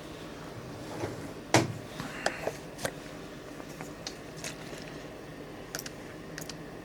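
Scattered small clicks and knocks of small objects being picked up and set down on a work surface, the loudest about a second and a half in.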